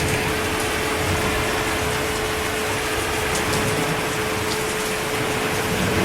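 Steady heavy rainfall, an even hiss with scattered drop ticks, over a constant steady hum.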